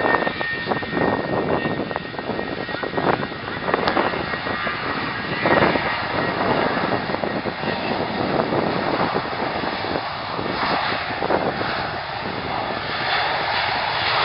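Fixed-wing aircraft engines running loud and close, a dense rough roar that eases slightly in the last few seconds.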